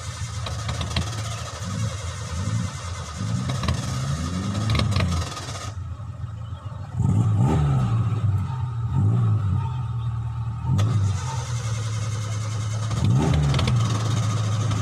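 Small Suzuki SJ-series 4x4's engine revving up and dropping back in repeated bursts of throttle as it crawls up a steep, rutted dirt slope under load.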